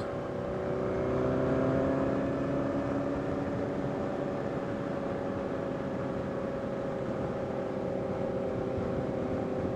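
Motorcycle engine running steadily at cruising speed, a little louder about a second in, with road noise beneath.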